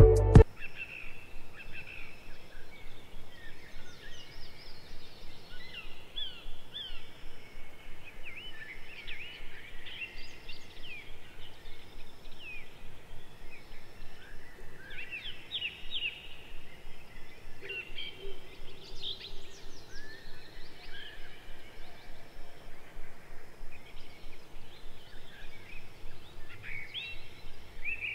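Outdoor ambience of several birds chirping and calling, short quick notes overlapping throughout, over a faint fast, even pulsing in the background.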